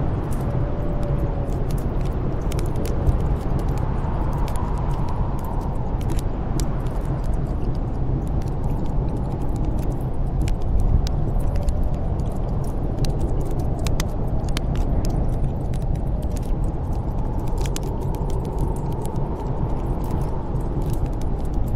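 Steady snowstorm wind with a faint wavering whistle, over the scattered crackles and pops of a wood fire burning in a fireplace.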